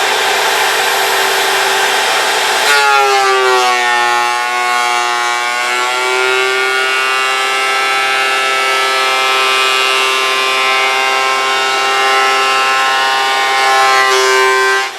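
Electric wood planer whining, its cutter biting into a board about three seconds in: the motor's pitch sags under the load, recovers and holds steady as the board feeds through, then rises again just before the end as the cut finishes.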